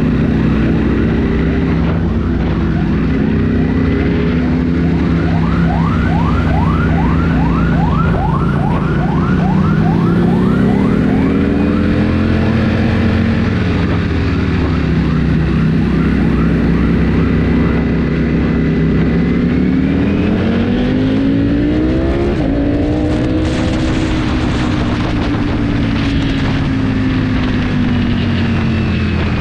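Motorcycle engine on the move, its pitch rising and falling several times as the bike accelerates, shifts and slows.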